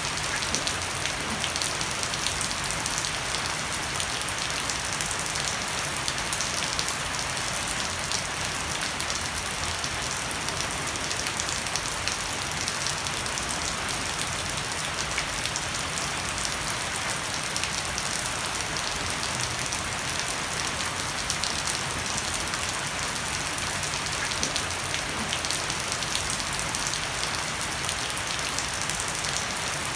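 Heavy rain falling steadily on a wooden deck and leafy shrubs, with water streaming off the edge of a thatched roof.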